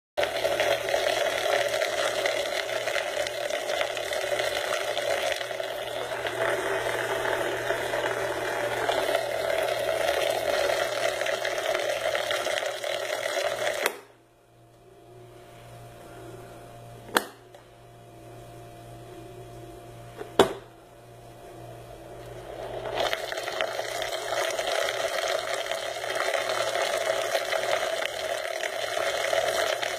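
Homemade mini blender's small motor running steadily, cutting off suddenly about halfway through. After two sharp clicks a few seconds apart, the motor builds back up and runs loud and steady again.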